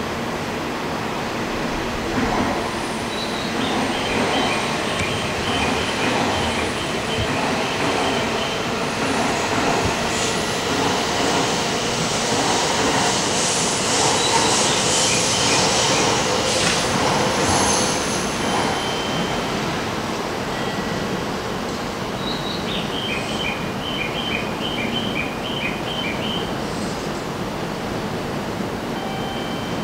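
A Shinkansen train moving slowly along a station platform. The sound swells to its loudest about halfway through, then fades, with a thin high squeal from the wheels. Twice, a quick run of short high-pitched notes sounds over it.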